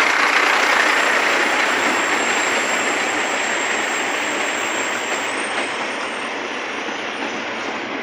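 Freight train cars rolling over the rails through a level crossing, a steady rushing rattle that slowly fades.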